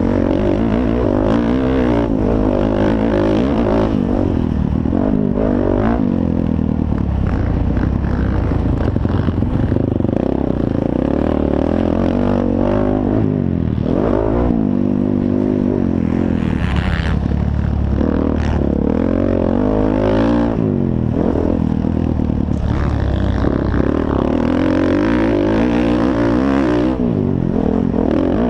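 Motocross bike engines racing, revving up and dropping back over and over as the riders accelerate, shift and back off.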